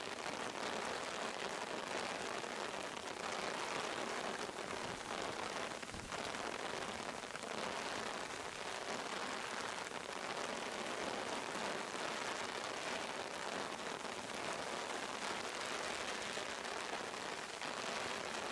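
Heavy rain falling onto the surface of a pond, a steady even hiss.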